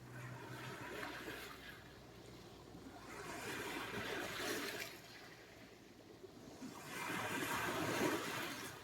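Mediterranean sea surf: waves wash in three times, each a rush of water that swells and then fades. The third wave is the loudest, near the end.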